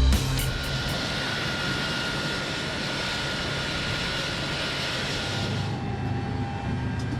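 Steady aircraft engine noise: an even rush with a thin, steady whine over it. Near the end the whine stops, the rush loses its top, and a low hum comes in.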